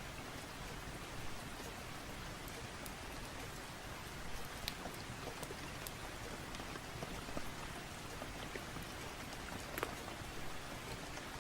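Steady rain with a crackling wood fire: an even hiss broken by a few scattered sharp pops.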